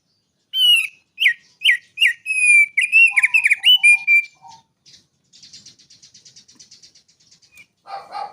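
A small songbird singing a fast run of loud, sharp whistled notes, several of them sweeping down in pitch, for about four seconds. It then breaks into a fainter, rapid buzzy chatter.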